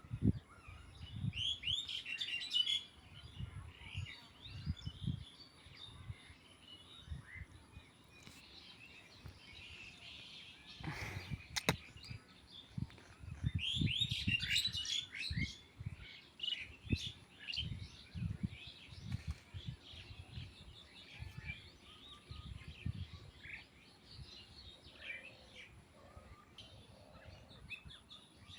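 Small birds chirping and twittering, with busy flurries about two seconds in and again around fourteen seconds, over soft low thuds.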